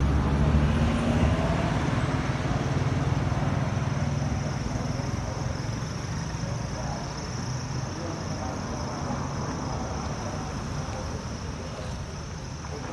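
Street noise: a vehicle engine running amid traffic, with indistinct voices in the background.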